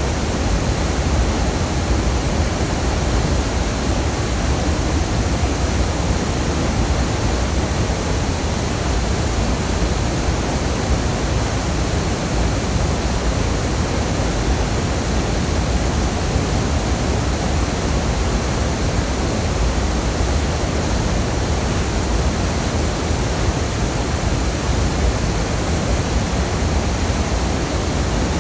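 A waterfall's falling water making a steady, unbroken rushing noise, heaviest in the deep low end.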